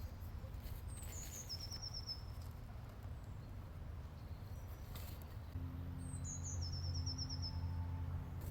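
A songbird sings twice, each phrase a high slurred note followed by a quick run of repeated notes. A low steady hum comes in about halfway through.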